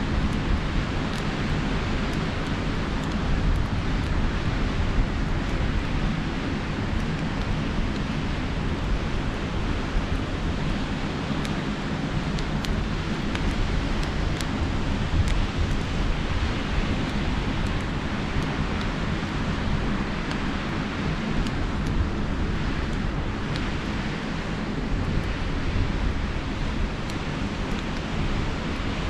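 Steady wash of sea surf with wind rumbling on the microphone, and a campfire crackling with small sharp pops scattered throughout.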